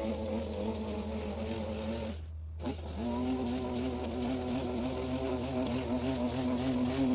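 Stihl FS 38 string trimmer's two-stroke engine running steadily at high revs, briefly cutting out for under a second about two seconds in, then running on at a slightly higher pitch. It is running cleanly after its clogged carburettor was cleaned.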